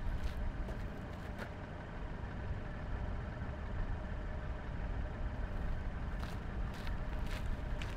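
Mercedes car engine idling steadily, with footsteps on gravel a few times near the start and again near the end.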